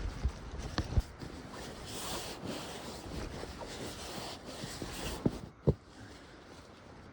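Camping gear being handled and packed up: rustling, with a few sharp knocks about a second in and again around five and a half seconds in.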